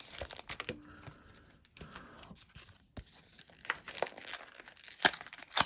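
Foil booster pack wrapper crinkling and crackling as it is handled, in faint scattered crackles with a few sharper ones near the end.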